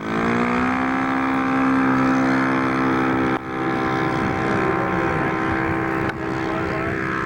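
Radio-controlled scale model airplane's engine running at high power, its pitch rising as it throttles up at the start and then holding steady. The sound cuts off abruptly twice and comes straight back.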